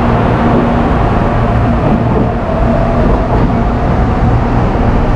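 Electric commuter train moving off along the platform: wheels running on the rails with a steady rumble, and a faint motor whine rising slowly in pitch.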